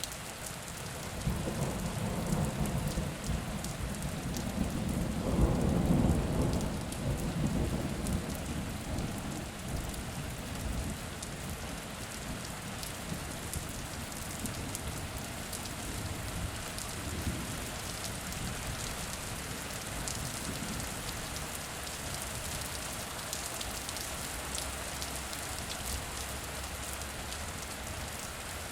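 Steady rain falling, with a roll of thunder that builds about a second in, is loudest around five to six seconds, and rumbles away over the next few seconds.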